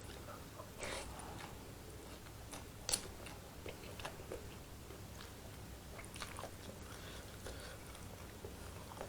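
A person chewing and biting spicy curry instant noodles in soup, close to the microphone, with small scattered mouth clicks. A single sharp click about three seconds in is the loudest sound.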